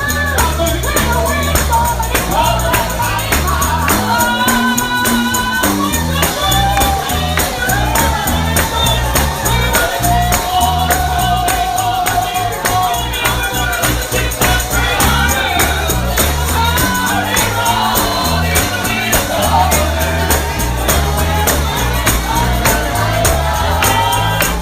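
Live gospel singing, a lead voice with vibrato over a band with a pulsing bass line, and a tambourine shaken on a steady beat.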